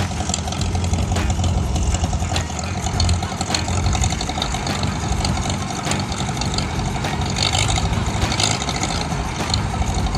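Old Farmall tractor's engine running steadily with an even low throb.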